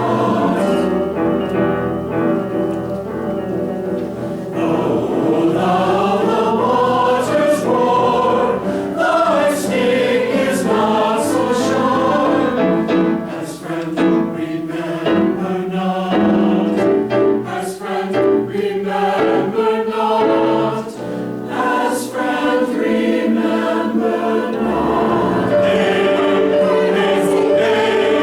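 Community choir singing a choral piece in several parts at once, the voices sustained and moving together in harmony.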